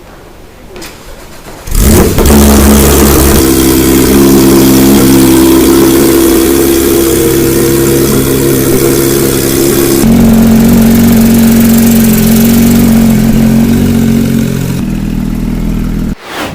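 Porsche 991.2 GT3's 4.0-litre naturally aspirated flat-six, breathing through an Akrapovic titanium full exhaust, cold-started: it fires loudly about two seconds in and settles into a high, steady fast idle. The idle steps down about ten seconds in and again near the end.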